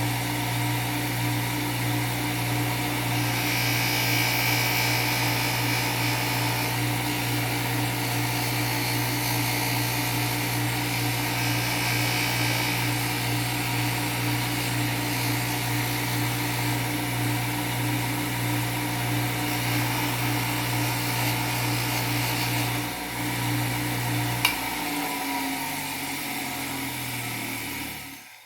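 Bench grinder with a non-woven abrasive wheel running with a steady electric-motor hum. A metal hinge is pressed against the wheel now and then, adding a rising abrasive hiss while the corrosion is scrubbed off. Near the end the motor hum drops and winds down.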